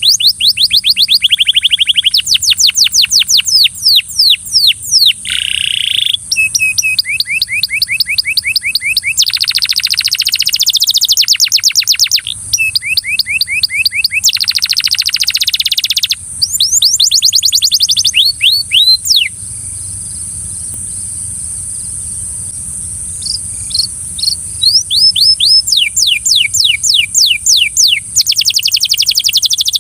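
Belgian canary singing long phrases of fast repeated sweeping notes, one rapid trill after another, with a pause of a few seconds past the middle before the song picks up again. A steady high hiss runs underneath.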